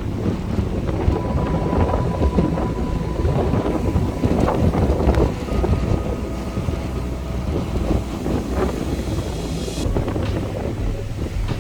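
Strong northeasterly wind blowing across the microphone, a loud noisy rush that rises and falls with the gusts.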